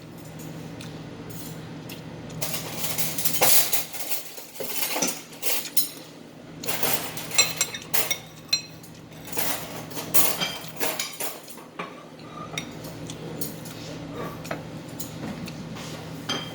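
Cutlery clinking and scraping against dishes during a meal: irregular short clinks, some ringing briefly, over a steady low hum.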